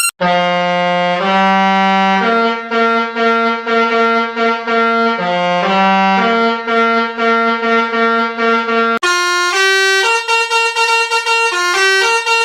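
A horn sound effect pitched note by note to play a tune, in a reedy, horn-like tone. About nine seconds in it cuts abruptly to a brighter, higher variation with quicker note changes.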